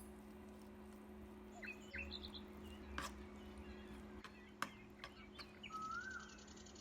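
Small birds chirping faintly, with short rising and falling calls and a quick buzzy trill near the end, over a steady low hum. A few sharp clicks are heard, the loudest about three and four and a half seconds in.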